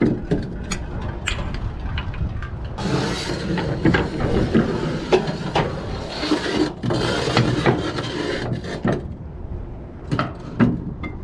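Cargo strap being thrown over a flatbed load: the webbing slides and rasps over the load for several seconds in the middle, with clicks and clanks from its metal hook and buckle before and after.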